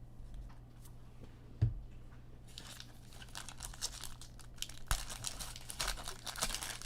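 Foil wrapper of a trading-card pack crinkling and tearing as it is opened by hand, with cards clicking. Quiet at first apart from a single knock, then continuous crinkling from about two and a half seconds in.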